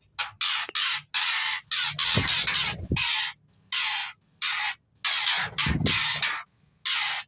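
A baby bird's harsh, hissing calls, repeated in about ten quick bursts with short gaps between them.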